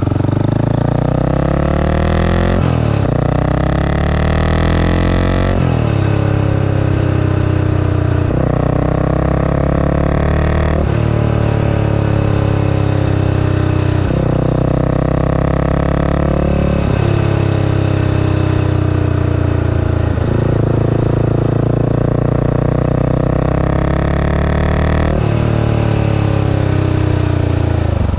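Honda GB500's single-cylinder 500cc engine under way, accelerating in repeated pulls. Its pitch climbs and then drops sharply at each gear change, about ten times.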